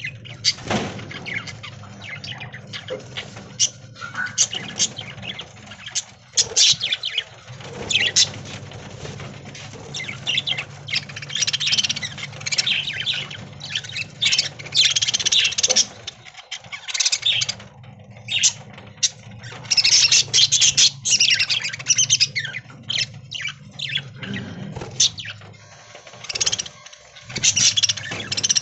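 A flock of budgerigars chirping and chattering continuously, many short high calls overlapping, with occasional squawks.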